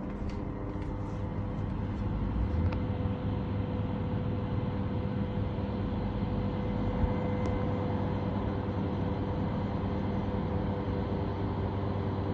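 Steady low drone of running machinery, a constant hum at a few fixed pitches over a rushing noise.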